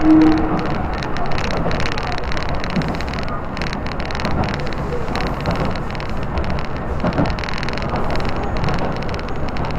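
Tobu Skytree Line electric commuter train running, heard from inside the carriage: a steady rumble of wheels on rail and running gear, with a brief tone right at the start.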